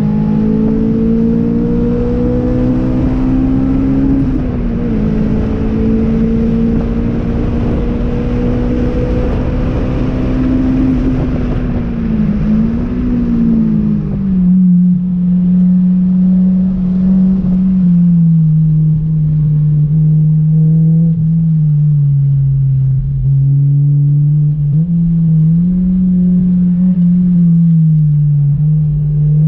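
Honda S2000's four-cylinder engine heard from inside the cabin, pulling hard with its pitch climbing slowly and two brief dips, about four and twelve seconds in. About halfway through, the loud rushing noise falls away and the engine runs on at a lower, wavering pitch.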